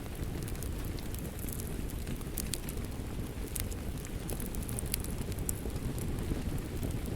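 Wood fire crackling, with scattered sharp pops and snaps, over a steady low rush of rain.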